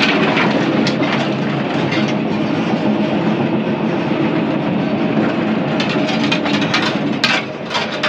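Crawler dozer running and moving on its steel tracks: a steady diesel engine sound mixed with track rattle, with a few sharp clacks in the last couple of seconds.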